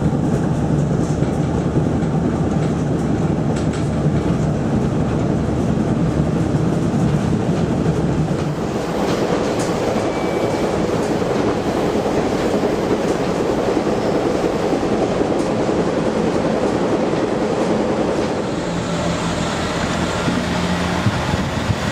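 Class 144 Pacer diesel train running along the line, heard from inside the carriage: a steady rumble of the underfloor diesel engine and the wheels on the rails, with a clickety-clack over the rail joints. The engine's low hum fades about eight seconds in and comes back near the end.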